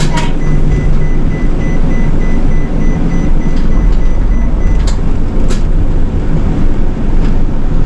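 City bus running, heard from inside near the front: a steady low engine and road rumble. A thin steady high tone sounds for about four and a half seconds, then two sharp clicks come about five seconds in.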